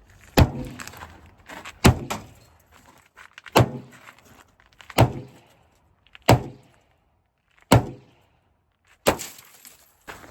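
Heavy blows landing on a pickup truck's body, seven in a steady rhythm about one and a half seconds apart, each dying away with a short ringing tail.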